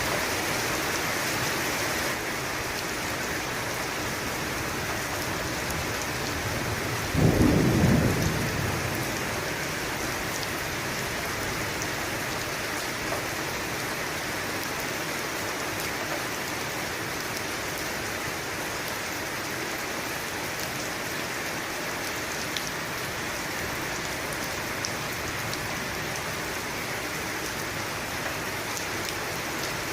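Steady rain falling, with one clap of thunder about seven seconds in that rumbles low for a couple of seconds before fading back into the rain.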